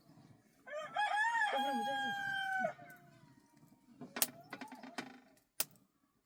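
A rooster crowing once, a single call of about two seconds that rises, holds and then drops off. Later come a couple of sharp knocks.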